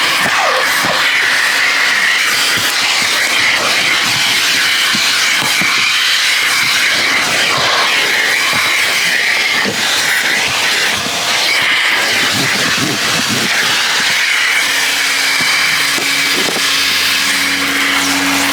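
Coin-operated car-wash vacuum running steadily and loudly, its hose sucking air while it is worked over the car's back seats.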